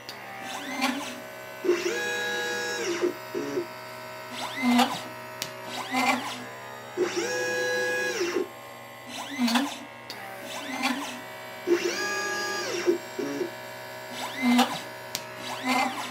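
LitePlacer pick-and-place machine placing capacitors and resistors. Its stepper motors whine, rising and falling in pitch as the head speeds up and slows down on each move, with short clicks between moves, in a cycle that repeats about every five seconds.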